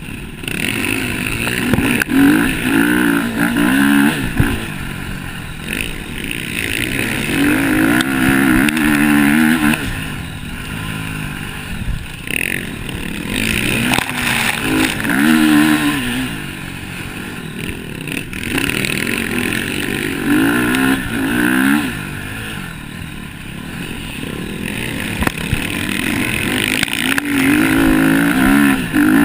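Motocross bikes racing, their engines revving up and backing off again and again as they run through the gears, with the sound swelling loud in repeated waves as bikes come past.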